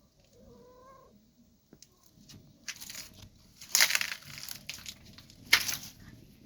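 A domestic cat gives one short, quiet meow about half a second in. From about three seconds on come loud scuffing and rustling noises, sharpest near four seconds and again about five and a half seconds in.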